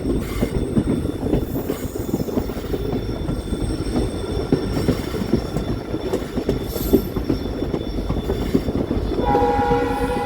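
Passenger train running on the track, a dense uneven rattle of wheels and coaches. About nine seconds in, the locomotive's horn starts and is held as a steady multi-note blast.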